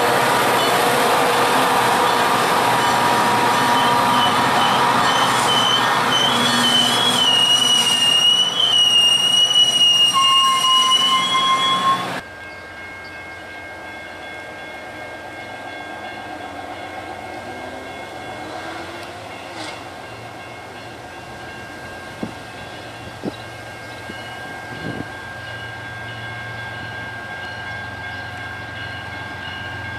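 Metra bilevel commuter train rolling along the platform, its wheels squealing in a high wavering squeal that grows louder. The sound cuts off abruptly about twelve seconds in, and is followed by the quieter, steady sound of an approaching BNSF freight led by GE ES44C4 locomotives, with a few faint clicks.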